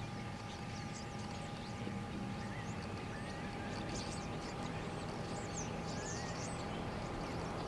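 Small birds chirping faintly and repeatedly, high-pitched short calls over a steady low rumble and a faint steady whine.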